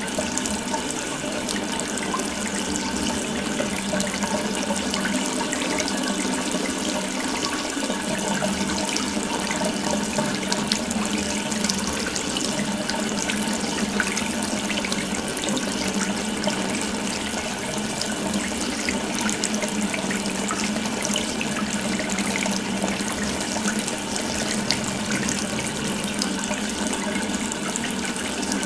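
Water running steadily from an open tap, a continuous splashing stream.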